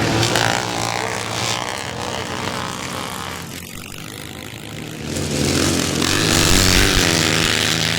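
Classic motocross bikes racing past on a dirt track, engines revving. The sound is loud at first, falls away around the middle, then swells again as more bikes come by from about five seconds in.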